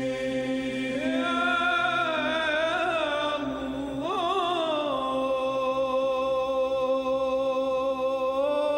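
Arabic devotional singing: one voice holds a long, drawn-out melismatic note with ornamented turns about two and four seconds in, over a low steady drone.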